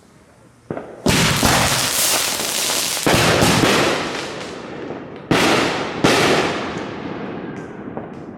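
Consumer fireworks going off: a small pop, then four loud bangs at roughly one, three, five and six seconds, each followed by a long, slowly fading rumble.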